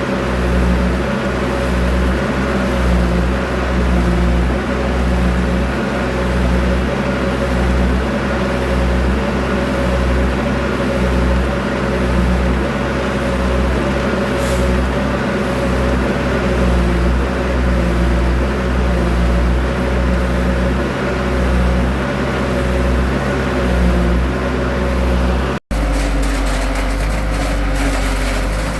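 Vehicle engine running steadily, with a low rumble that swells and fades. About 26 seconds in there is a brief dropout, and after it a similar steady engine sound goes on.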